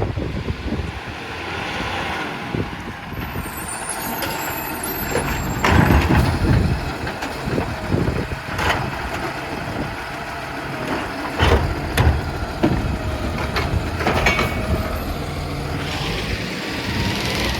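New Way Sidewinder side-loading recycling truck running, a steady engine hum with louder swells and several sharp, sudden hisses and knocks.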